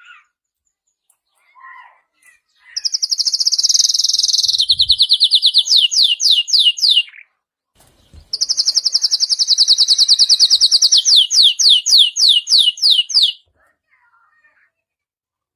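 Domestic canary singing: two long song phrases, each opening with a fast high trill and ending in a run of quick falling sweeps.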